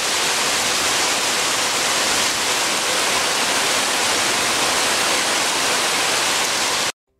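Heavy rain falling, a loud, steady, even hiss that cuts off abruptly near the end.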